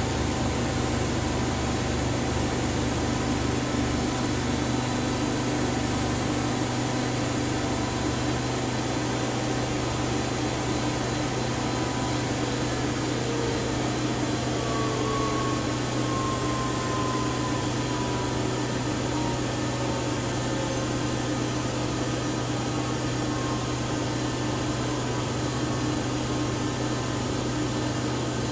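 Washing machine running with a steady motor hum and a constant low tone; a faint higher tone slides slowly downward partway through.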